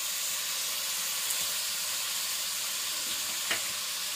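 Shredded chicken frying in a little oil in a metal kadhai, a steady sizzle as it is stirred with a wooden spatula, with one light knock about three and a half seconds in.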